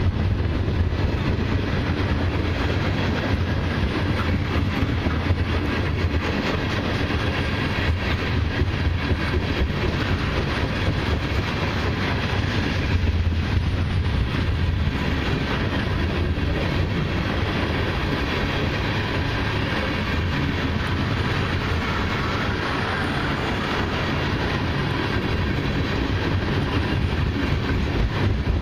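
A long freight train of mixed cars and autoracks rolling past at speed: a steady rumble of steel wheels on rail, with clickety-clack over the joints.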